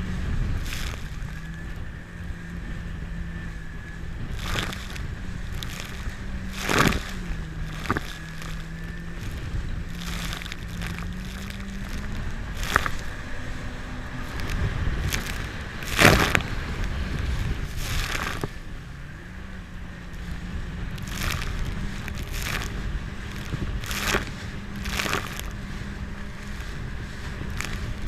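Jet ski engine running at a steady speed, its pitch dropping slightly and then rising again. Short bursts of splashing and wind noise break in every few seconds, the loudest about 16 seconds in.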